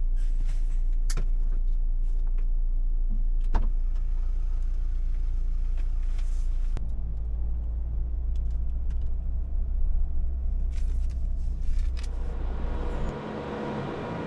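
Low steady rumble of a road vehicle on the move, with a couple of sharp clicks about one and three and a half seconds in. Near the end it cuts suddenly to a quieter, different hum.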